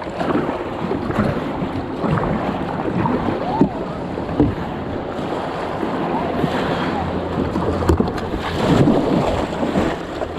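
Water sloshing around a fishing kayak, with wind buffeting the action camera's microphone and a few sharp knocks, about three and a half, four and a half and eight seconds in.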